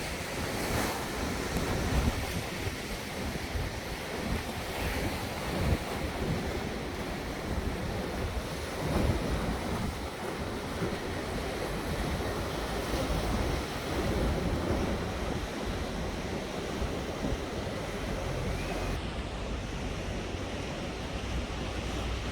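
Strong wind buffeting the microphone in uneven gusts over a steady rushing noise.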